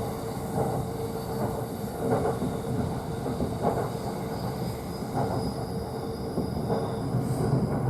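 Running noise of a JR East E531 series electric train heard from the upper deck of its bilevel Green Car: a steady rumble with a constant hum, and soft rail-joint thumps about every second and a half.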